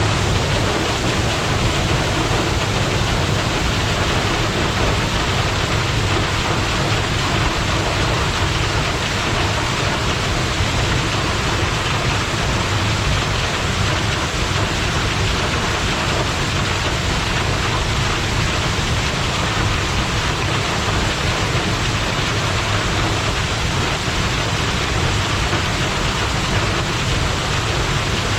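A high-volume waterfall pouring steadily: a dense, unbroken rush of falling water.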